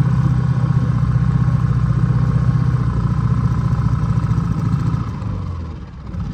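Small petrol outboard motor idling just after a cold start, warming up. It runs steadily, then drops lower and quieter about five seconds in.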